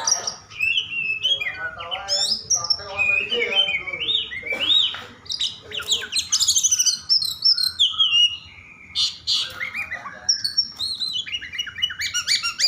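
Oriental magpie-robin (kacer) singing a fast, dense, varied song of sharp whistles, pitch glides, trills and short rough notes with hardly a pause. This is the agitated, aggressive singing that keepers call 'over emosi', used to provoke other magpie-robins into song.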